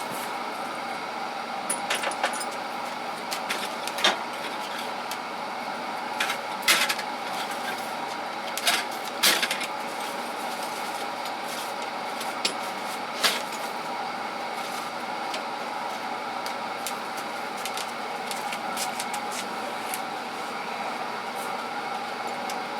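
Hand tools clinking and clattering now and then as they are handled and set down, mostly in the first half. Under them runs a steady background hum with a few held tones.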